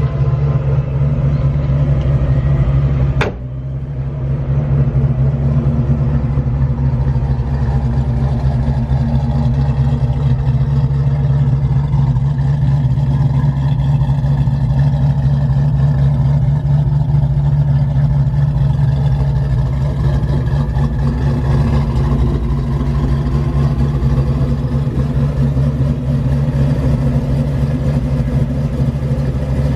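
Supercharged 302 cu in V8 of a 1995 Mustang SVT Cobra, with exhaust headers, running steadily at a nearly constant pitch. A sharp click about three seconds in briefly drops the level.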